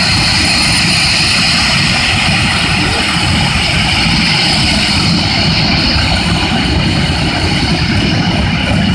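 Jet funny car's turbine engine running loud and steady: a continuous roar with a high whine over it.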